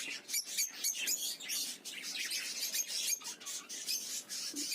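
A flock of caged budgies and African lovebirds chirping, many short high calls overlapping without a break.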